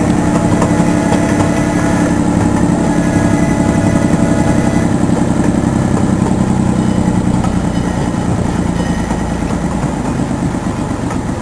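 Engine of a small ride-on zoo train running steadily with an even pulse, a little quieter over the last few seconds.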